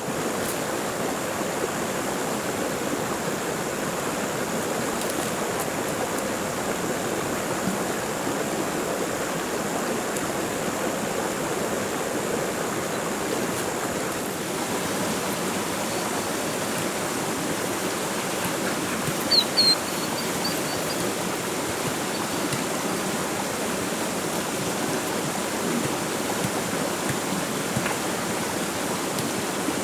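Steady rush of flowing stream water. A few short high chirps cut through about two-thirds of the way in.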